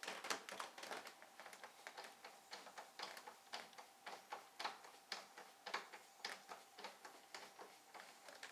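Quick, irregular clicks and taps, several a second, of hand work on a van's interior door panel as the door handle is fitted back on.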